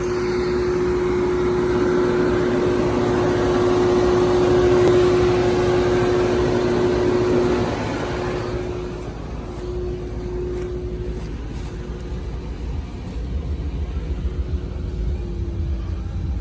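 2014 Infiniti QX70's V8 engine running, a steady hum that drops sharply in level about eight seconds in, leaving a quieter low rumble that grows towards the end.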